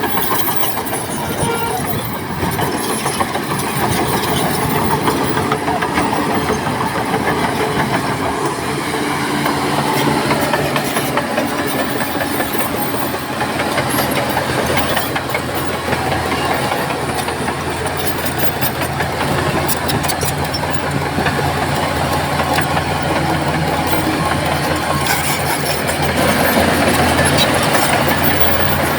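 Shantui crawler bulldozer working: its diesel engine runs steadily under load while the steel tracks clank and clatter. A steady engine drone grows clearer about a third of the way through.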